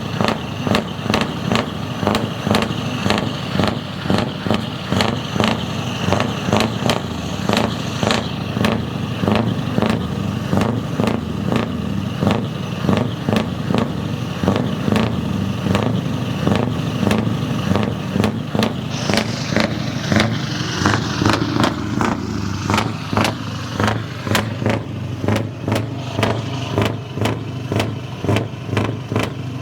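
Scania T500's V8 diesel engine running through a loud exhaust, a steady low rumble with frequent sharp clicks throughout.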